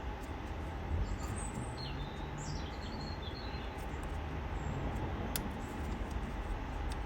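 Steady background noise with a few faint, high bird chirps about one to three seconds in, and a single sharp click a little past five seconds.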